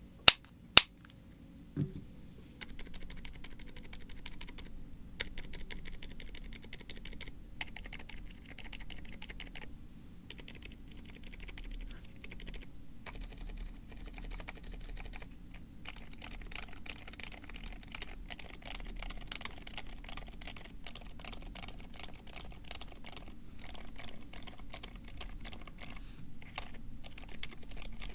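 Typing on a Drop Tokyo60 aluminium mechanical keyboard with lubed Gazzew Boba U4 silent tactile switches and PBT keycaps: a steady run of rapid keystrokes with short pauses, starting about two and a half seconds in. Just before it come a single sharp click, the loudest sound here, and a low thump.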